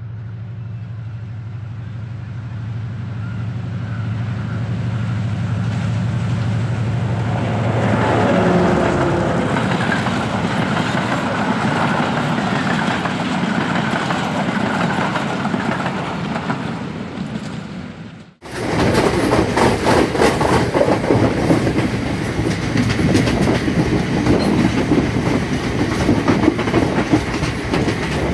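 An M2-class diesel-electric locomotive hauling an express train approaches with a steady low engine drone that grows louder. Its pitch drops as it passes about eight seconds in, and the coaches then roll by with a steady rumble. About eighteen seconds in, the sound cuts abruptly to the rapid clickety-clack of wheels over rail joints, heard from aboard a moving train.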